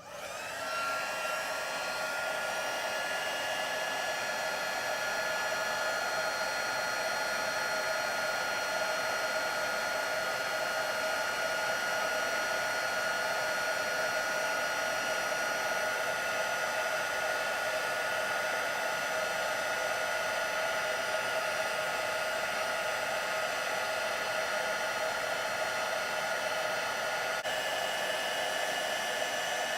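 Handheld embossing heat tool running steadily, a blower's rush with a high whine in it, melting white embossing powder.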